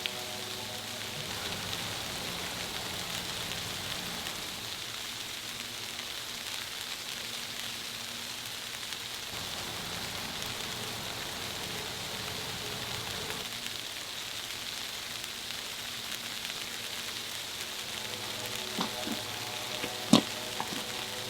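Steady crackling hiss of storm precipitation falling onto surfaces, with a faint low hum underneath. A few sharp knocks come near the end, the loudest about twenty seconds in.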